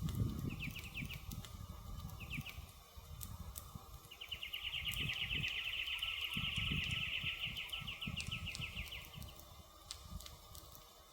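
Campfire crackling, with sharp pops over a low rumble, while a high, rapid trill sounds twice briefly near the start and then once for about five seconds.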